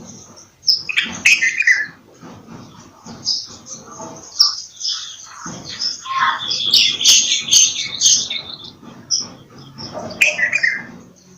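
Bulbul chirping and calling in a run of short, bright notes, busiest about halfway through.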